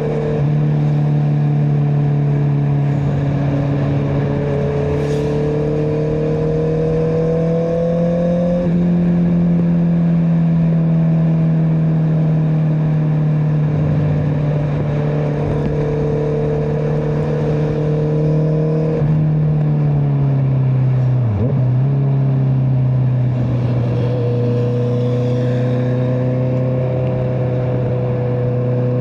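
Honda CBR650R inline-four engine through an Akrapovic exhaust, running steadily under way at mid revs. Its pitch drifts slowly up and down, steps about 9 and 19 seconds in, and briefly dips and recovers around 21 seconds in.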